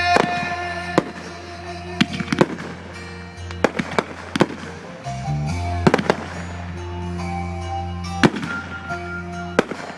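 Fireworks going off, about ten sharp bangs at uneven intervals, over a song playing.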